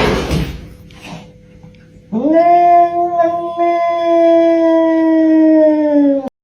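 One long animal howl, about four seconds, that starts a couple of seconds in, holds its pitch while sinking slowly, and cuts off abruptly.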